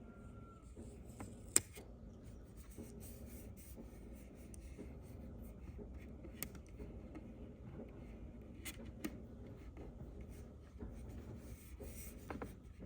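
Faint rustling and handling noises with a few sharp clicks, the loudest about a second and a half in. The tail of a rooster's crow fades out at the very start.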